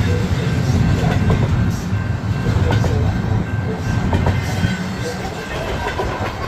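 Union Pacific intermodal freight train rolling past, a steady low rumble with scattered clicks of the wheels over the rail joints.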